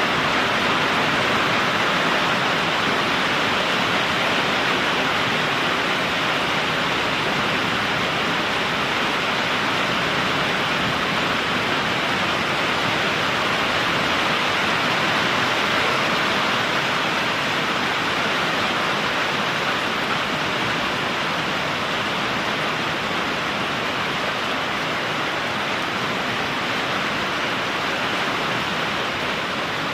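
Very heavy thunderstorm rain pouring down in a dense, steady hiss that barely changes.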